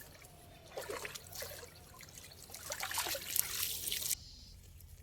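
Water splashing and trickling in two spells, about a second in and again from about two and a half seconds, the second stopping suddenly near the end.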